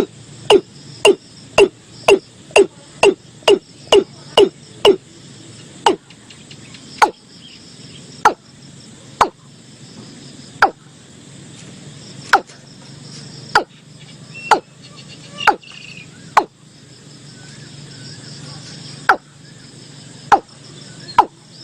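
Watercock calling: a series of short, low notes, each dipping slightly in pitch, about two a second at first, spreading out to single notes a second or two apart in the middle, then quickening again near the end. Insects trill faintly behind.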